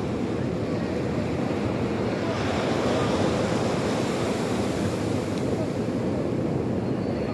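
Sea surf washing steadily onto the shore, swelling a little a few seconds in.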